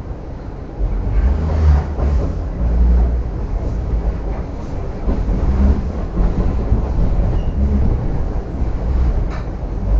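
Double-decker passenger train running on the rails: a steady low rumble with uneven heavier knocks and a few faint clicks.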